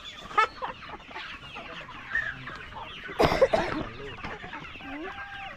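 A flock of young, two-month-old chickens clucking and peeping with many short, falling calls, and one louder burst a little over three seconds in.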